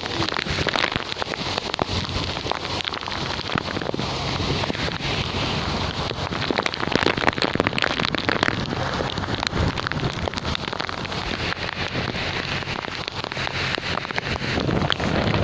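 Heavy typhoon rain falling steadily, with many drops striking close by.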